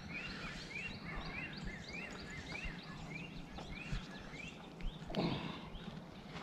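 A small bird calling over and over, short rising-and-falling chirps about two a second, with a brief louder rustle-like noise about five seconds in.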